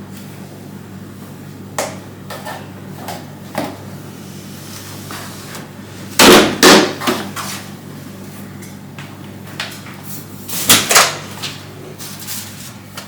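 Household objects being knocked and set down during cleaning: scattered sharp knocks and clatters, with a louder cluster about six seconds in and another about ten to eleven seconds in, over a faint steady low hum.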